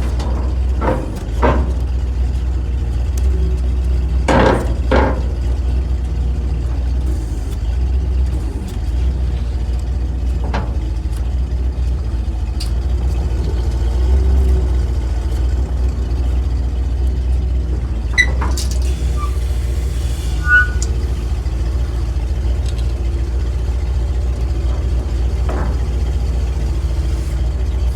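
International tree truck's engine running steadily with the PTO engaged, a constant low drone, while its hydraulics are worked by hand: scattered knocks and clunks, the loudest a pair about four and five seconds in, and a few brief high squeaks a little past the middle.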